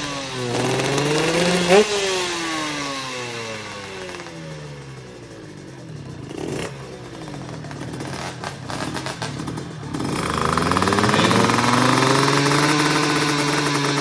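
Motorcycle engine running rough: a quick rev, then the revs sink slowly over several seconds into irregular sputtering and popping, a misfire the owner calls coughing. About ten seconds in it picks back up and holds a steady, faster idle.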